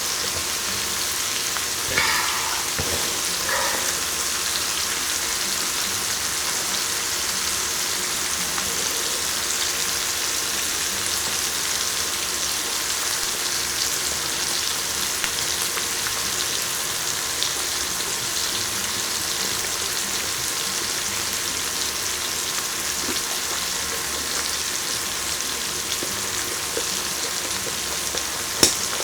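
Food sizzling steadily on an electric grill, a constant frying hiss, with a couple of light clicks about two seconds in and one sharp click near the end.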